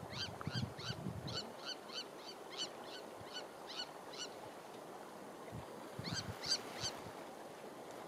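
A bird calling: a run of short, high notes, about three a second for four seconds, then three more after a pause.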